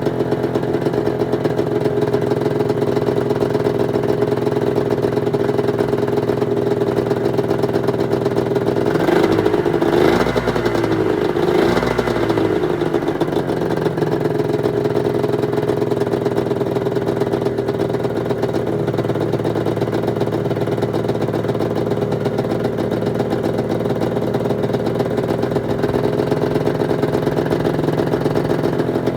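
1996 Arctic Cat ZRT 600's two-stroke triple engine idling steadily on its freshly rebuilt fuel pump, its pitch wavering briefly about ten seconds in.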